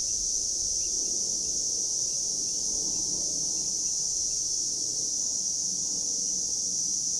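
Insects buzzing in a steady, unbroken high-pitched chorus.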